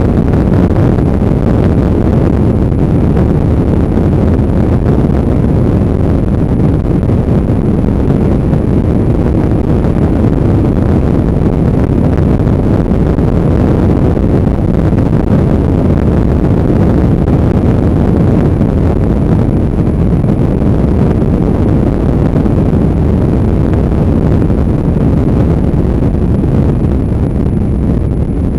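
Motorbike being ridden: steady, loud wind noise buffeting the microphone, mixed with the bike's engine and road noise.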